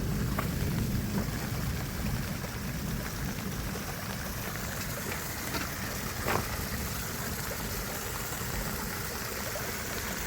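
Steady rush of a river running high after heavy rain, with a faint click or two.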